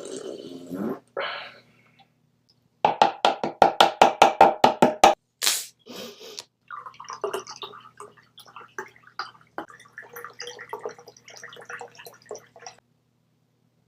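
A man making vocal and mouth noises: a quick staccato run of about a dozen pulsed sounds, a short hiss, then several seconds of irregular wet, gurgling mouth sounds.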